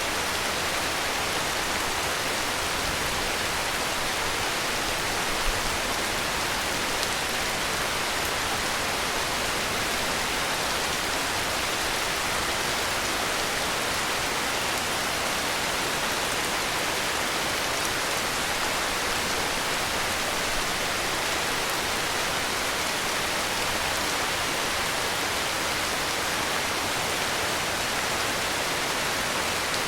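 Heavy rain falling in a steady, even hiss, with one slightly louder drop or tap about five and a half seconds in.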